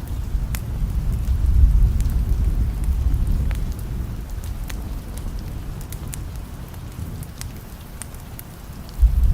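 Steady rain with low rolling thunder that swells a second or two in and slowly fades, then a new rumble starting abruptly near the end. Scattered sharp crackles sound throughout.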